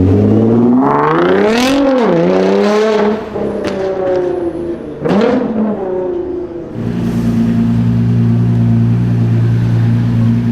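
Nissan GT-R R35's twin-turbo V6 revving: the engine pitch climbs and drops back in several pulls, the last a sharp rise about halfway through. It then settles into a steady low drone.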